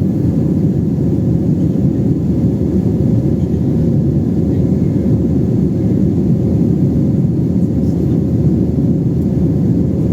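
Airliner cabin noise: a steady low rumble of the jet engines and airflow heard from inside the passenger cabin, with a faint steady hum above it.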